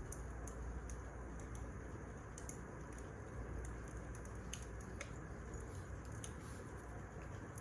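Wood fire crackling: irregular small pops and snaps over a steady low rumble and hiss of burning logs.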